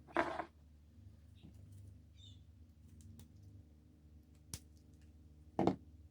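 A few sharp clicks and short scraping rattles from small hard objects being handled, over a steady low hum.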